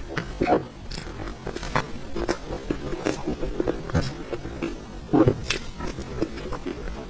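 Close-up wet chewing and lip smacking while eating soft creamy cake, an irregular run of sticky mouth clicks and smacks.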